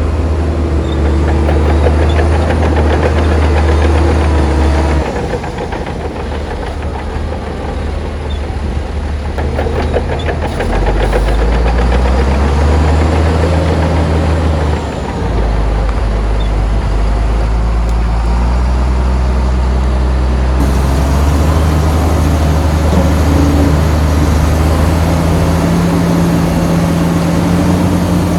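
Heavy diesel engines of construction machinery running, their pitch stepping up and down several times as the load changes.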